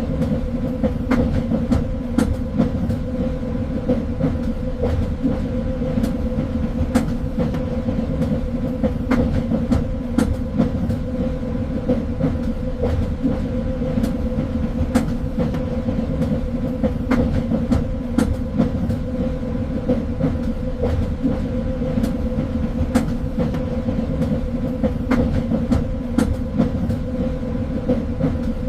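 Train running steadily on the rails: a constant low rumble and hum, with frequent irregular clicks and knocks from the wheels over the track.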